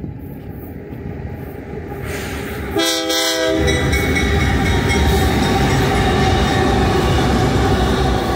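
Diesel freight train approaching, its rumble building, with one short horn blast from the lead locomotive about three seconds in. The loud rumble of the GE diesel locomotives then takes over as they pass close by.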